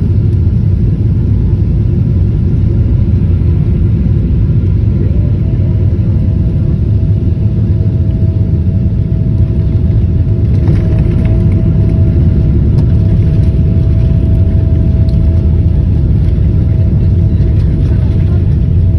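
Loud, steady low rumble of an airliner heard from inside the cabin during landing. A steady high hum joins about five seconds in.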